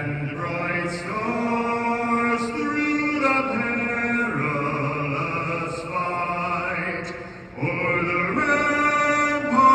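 A man singing a national anthem solo, holding long notes that step from one pitch to the next, with a short break between phrases about seven and a half seconds in.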